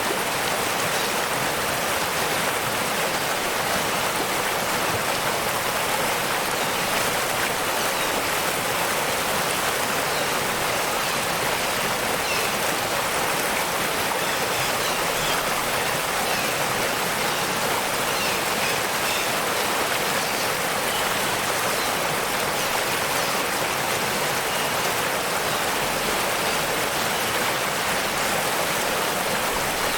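Waterfall water rushing and splashing in a steady, unbroken hiss.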